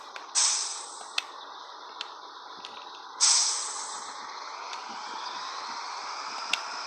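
Two sudden hisses of compressed air let out of a Scania 113H truck's air brake system, about three seconds apart, each fading away over about a second, with a few light clicks between them.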